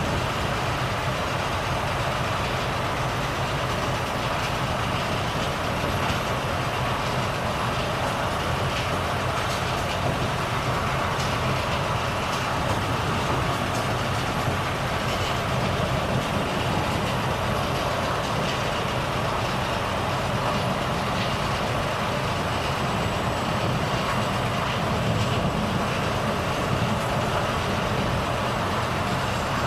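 Volvo FH truck's engine running steadily, with a constant low drone under an even rushing noise and no change in pitch or level.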